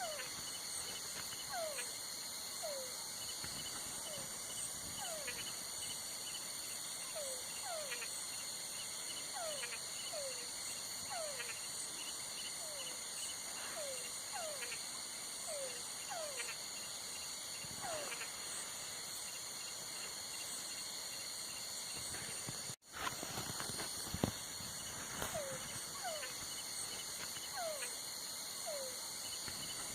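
Night ambience: a steady, high-pitched insect chorus, with an animal's short falling call repeating about once a second. The sound drops out briefly about three-quarters of the way through.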